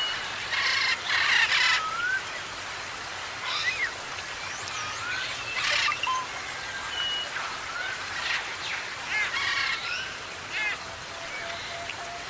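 Several forest birds calling at once: repeated rising whistled slurs mixed with short harsh, scratchy calls, and near the end a steady run of quick, evenly spaced low pipping notes.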